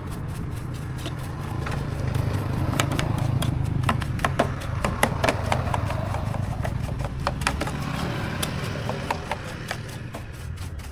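A small motorcycle engine idling steadily, easing off near the end, with many sharp metallic clicks and taps over it through the middle.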